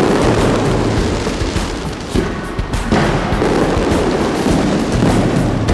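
Aerial fireworks shells bursting overhead, a dense run of bangs and crackles with music playing along.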